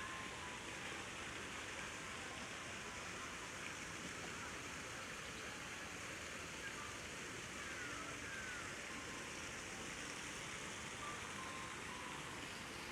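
Steady rushing of running water from the park's artificial cascade and pond, with a few faint short chirps about halfway through.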